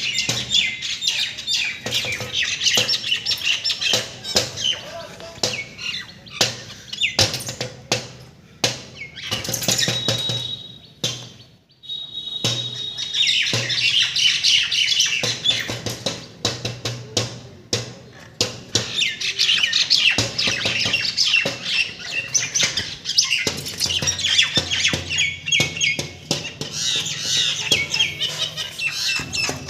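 Small pet birds chattering and squawking rapidly and continuously, mixed with many short sharp clicks, as they react to their own reflection. The calls break off for about a second near the middle, with a thin steady whistle, then start up again.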